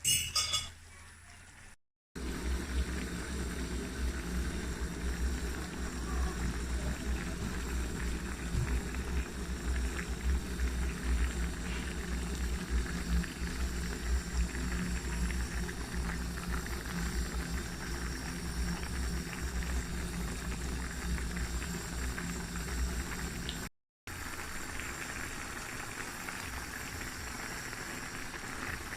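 A covered pot of Jamaican brown stew chicken simmering on low heat, bubbling and crackling steadily, with a low hum underneath.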